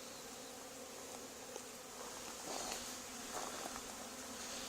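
A swarm of honey bees buzzing, a steady hum of many wings.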